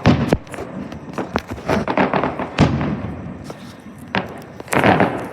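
Aerial fireworks bursting in a run of sharp bangs a second or so apart, each trailing off in an echo, with crackle between.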